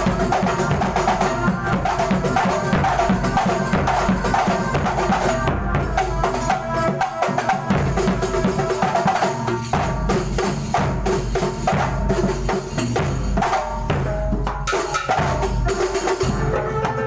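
Kuntulan ensemble playing: drums and frame drums beating a dense, fast rhythm, with a repeating pitched melody over the percussion.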